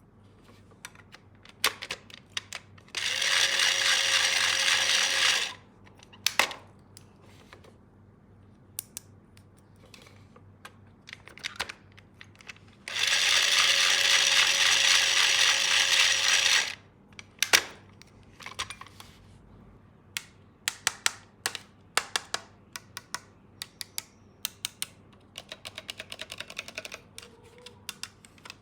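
A battery-powered toy tool runs twice with a steady whir, once for about two and a half seconds and later for about three and a half seconds. Between the runs come many light plastic clicks and taps as the toy tools and parts are handled.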